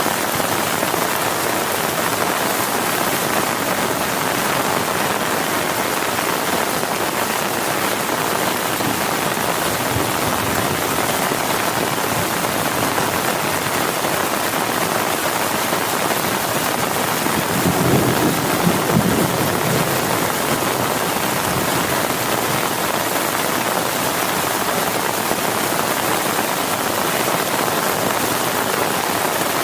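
Heavy rain pouring steadily, an even hiss. A brief low rumble rises through it a little past the middle.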